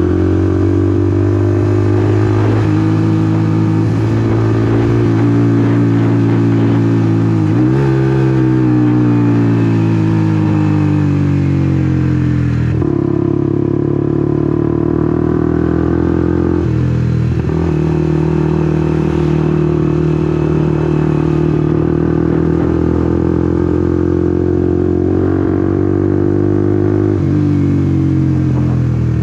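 Honda CBR150R's single-cylinder engine running under way, its pitch holding and sagging as it is ridden, with several sudden jumps in engine speed, about 8, 13, 17 and 27 seconds in, typical of gear changes.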